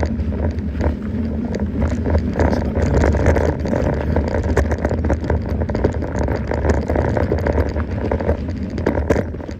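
Mountain bike riding over a rough dirt track: a steady low rumble of tyres and wind, with many small clicks and rattles from the bike.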